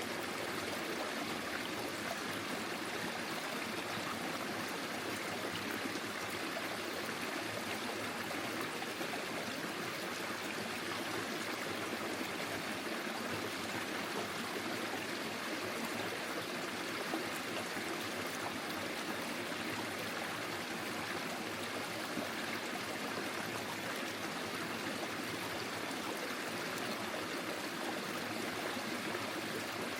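Forest stream flowing over stones, a steady babbling and trickling rush of water.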